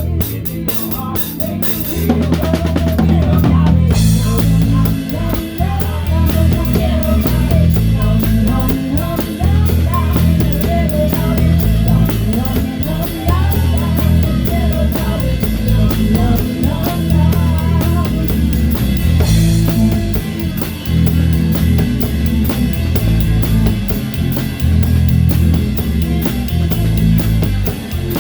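A live rock band playing, heard up close from the drum kit: a steady beat on kick, towel-damped snare and cymbals under a repeating bass line and guitar. A drum fill about 2 to 4 seconds in leads the full band into the groove.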